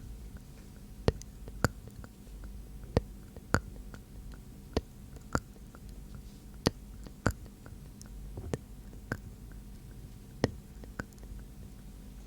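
Close-miked ASMR mouth sounds: sharp, wet mouth clicks in pairs about half a second apart, the pairs coming roughly every two seconds.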